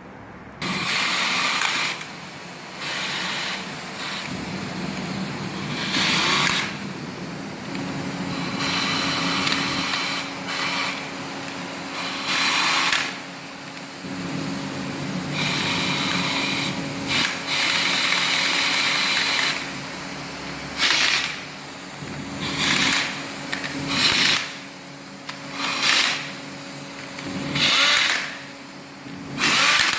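Handheld power tool running in repeated bursts of a second or two, stopping and starting again; in the second half the bursts come shorter and about every two seconds.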